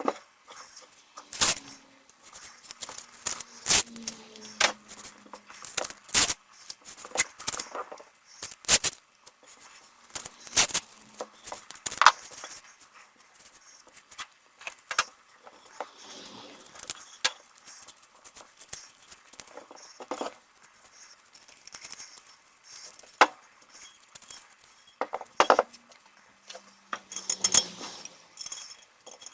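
Small metal parts clinking and knocking as they are handled and set down, in irregular sharp clicks, some with a brief metallic ring.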